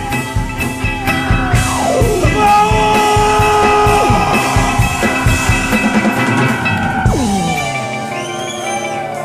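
Rock-style band music with drum kit and guitar, with a long downward pitch slide about two seconds in and another near seven seconds.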